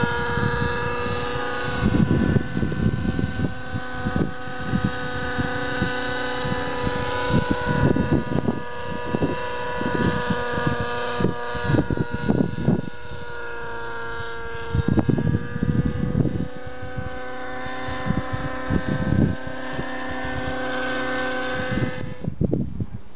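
Radio-controlled model aircraft engine running at a steady high pitch, dipping a little in pitch midway, with wind buffeting the microphone in low thumps. The engine sound stops abruptly near the end.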